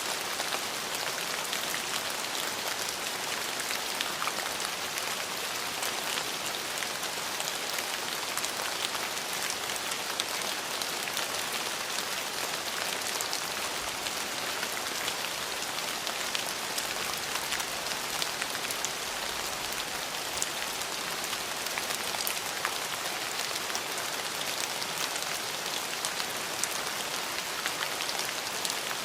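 Steady rain falling, a dense even patter of drops on a surface with fine individual drop ticks.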